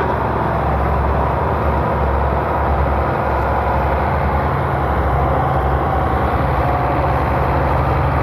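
Tractor diesel engine running steadily with a low, pulsing rumble.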